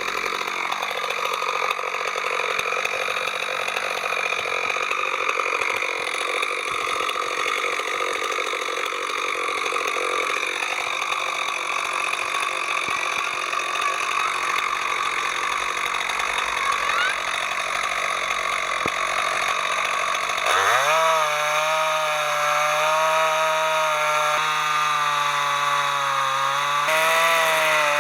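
Chainsaw on an Alaskan-style chainsaw mill, running under load as it rips lengthwise through a log. About two-thirds of the way through, the engine note rises quickly and then holds a steady high pitch.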